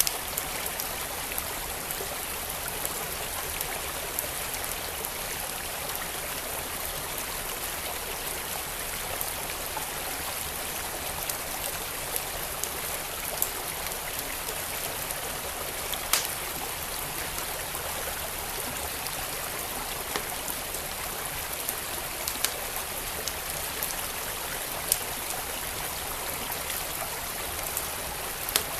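A flowing stream rushing steadily, with a wood fire crackling: a few scattered sharp pops, the loudest about sixteen seconds in.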